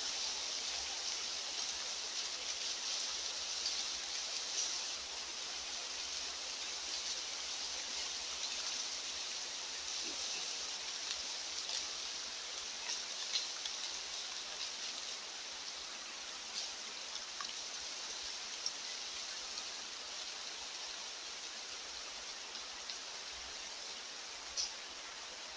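Steady high hiss of outdoor mountain ambience with scattered light ticks, slowly getting quieter.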